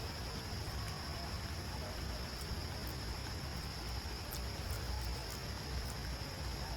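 Outdoor ambience: a steady, high insect drone over a low rumble, with a few faint ticks.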